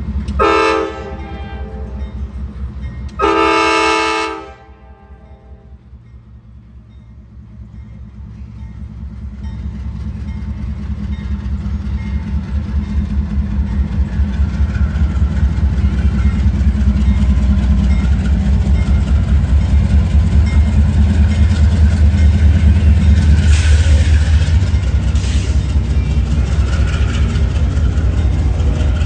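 Nathan K5LA five-chime horn on a Norfolk Southern AC44C6M freight locomotive sounding a short blast, then a longer one about three seconds in, as it passes. The train's freight cars follow, rolling over the rails with a low rumble and a steady rhythmic clatter of wheels over rail joints that grows louder and holds.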